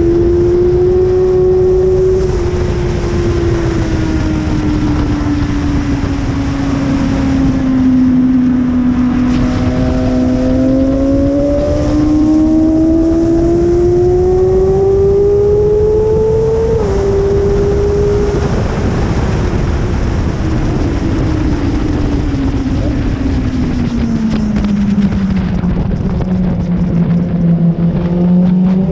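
BMW S1000RR inline-four engine at track speed, revs rising and falling through corners. There is a sharp drop in pitch about two-thirds through, an upshift. The revs then sink slowly for several seconds, off the throttle, and climb hard again near the end.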